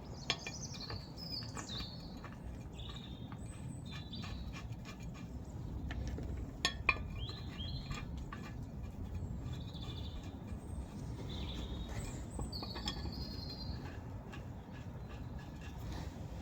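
Birds chirping on and off throughout, over a steady low outdoor rumble. A few sharp knocks cut through: one just after the start and two in quick succession a little before the middle.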